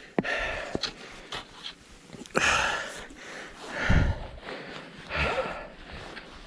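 A man breathing hard in several heavy, noisy breaths while climbing uphill on cross-country skis.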